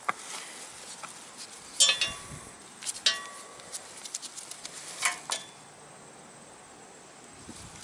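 Sharp metal clinks and taps from tools and screws being worked on a condenser fan motor, the strongest about two, three and five seconds in, a couple of them ringing briefly.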